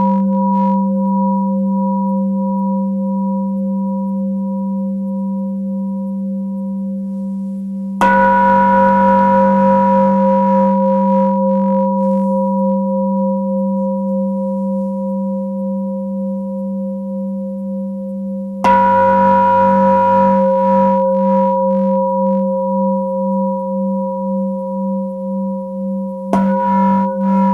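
Tibetan singing bowl struck three times, about 8 s apart. Each strike rings on in a deep, layered tone with a slow wavering pulse and fades gradually until the next strike.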